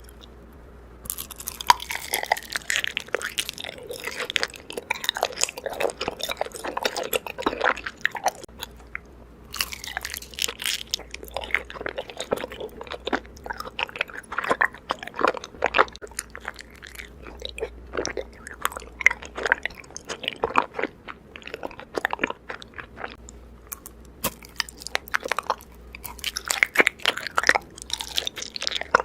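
Raw honeycomb being bitten and chewed: dense, irregular crunching and crackling of the wax comb, with a short pause about nine seconds in.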